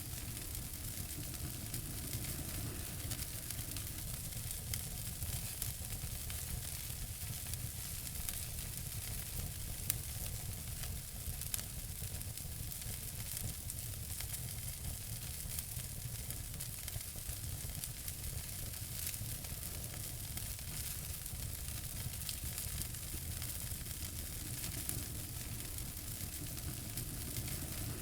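Wood fire crackling in a fireplace: a steady hiss with frequent small pops, and two sharper pops near the middle.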